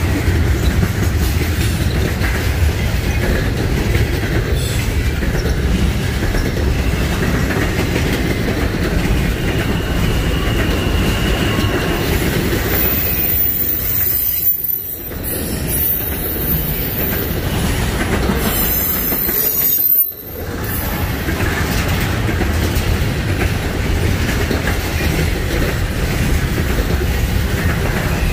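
Freight train rolling past, a steady loud rumble of wheels on rail. A brief high-pitched wheel squeal comes twice around the middle.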